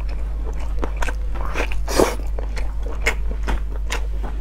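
Close-miked eating sounds: a person chewing and biting into glazed meat on the bone, with wet smacks and irregular sharp clicks, the loudest about two seconds in. A steady low hum runs underneath.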